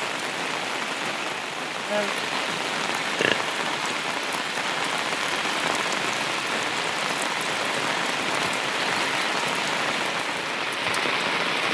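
Heavy monsoon rain falling steadily, an even hiss of many drops, with a brief sharp tick about three seconds in.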